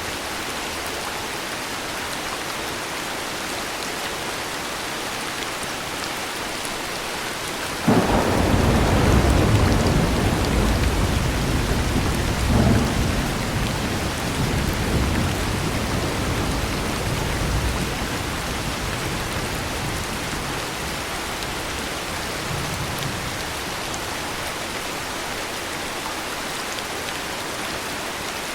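Steady heavy rain with a thunderclap: a sudden crack about eight seconds in, a second jolt a few seconds later, then a low rumble rolling on and slowly fading back under the rain.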